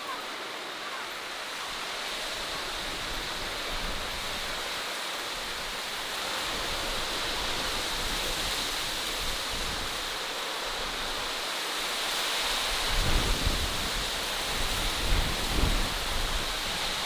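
Steady rushing outdoor natural ambience. From about two-thirds of the way in, irregular low rumbling gusts of wind hit the microphone.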